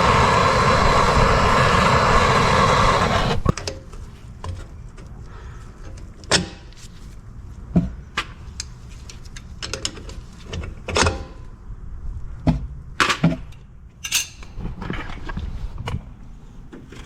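A loud, steady rushing hiss for about three and a half seconds that cuts off suddenly, then scattered sharp metallic clicks and knocks from hand tools working loose stiff, rusty drum-brake parts.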